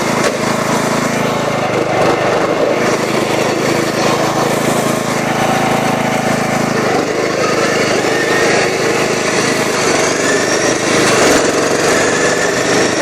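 Racing lawn mower engine running hard at speed, loud and steady; a lower part of its sound drops away about seven seconds in.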